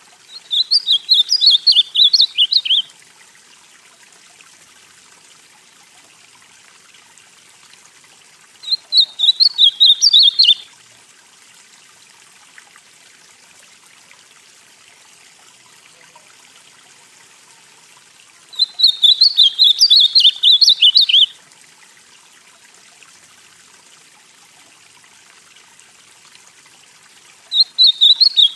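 Ultramarine grosbeak (azulão, Cyanocompsa brissonii) singing the northeastern song type: four short, fast warbled phrases of two to three seconds each, about nine seconds apart, over a faint steady hiss.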